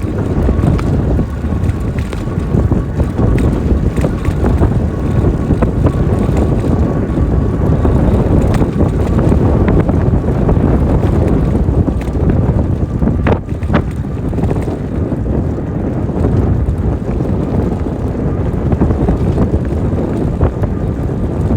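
Wind buffeting the microphone on an e-bike ridden at about 17 mph into a headwind: a loud, steady low rumble, with a faint steady whine above it.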